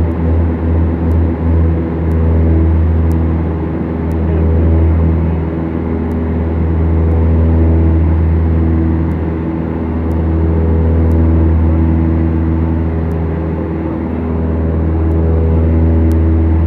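Twin piston engines of a Beechcraft Duchess, a pair of Lycoming four-cylinder engines, running steadily with their propellers. The drone pulses quickly for the first couple of seconds, then swells and fades in slow waves every few seconds.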